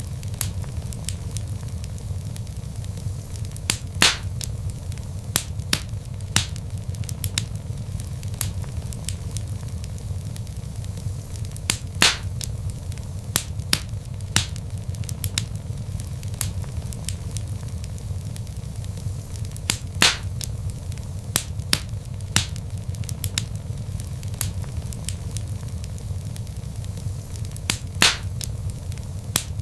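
Log fire crackling in a fireplace: frequent small pops and snaps over a steady low rumble, with a louder snap about every eight seconds.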